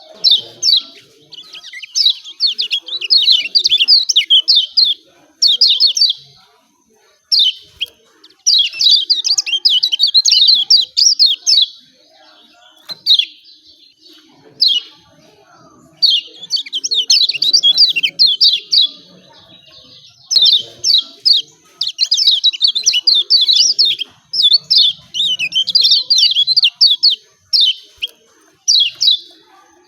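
Lemon-bellied white-eye (kecial kuning) giving its high, rapid 'ciak ciak' chirping calls. The calls come in fast runs of quick falling notes lasting one to four seconds, with short pauses between.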